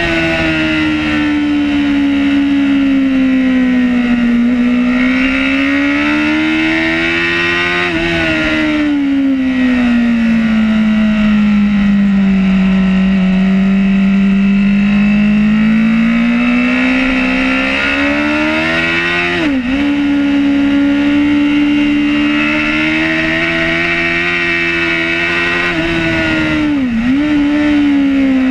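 Racing superbike engine heard from on board at speed, its pitch sinking and climbing slowly several times through corners and straights. Twice, about two-thirds through and near the end, the pitch dips sharply for an instant and picks up again as it shifts gear, with wind rush throughout.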